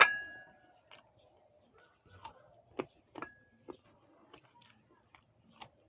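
Eating sounds from crisp green guava: a sharp clink with a brief ring at the start, then scattered crunchy bites and chewing clicks, with another short ring about three seconds in.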